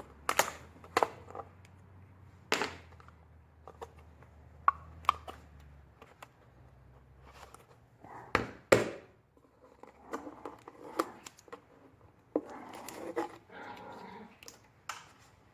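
Scattered clicks and knocks of a plastic oil jug and a cut-down plastic bottle used as a funnel being handled while fresh engine oil is poured in, with a louder clatter about eight seconds in and rustling handling noise later. A faint low hum in the background stops about six seconds in.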